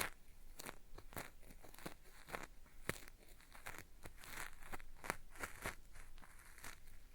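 Cotton swab scraping against a binaural microphone's ear, a gritty, crackly scratching in short irregular strokes, several a second, made to sound like ear wax being peeled away.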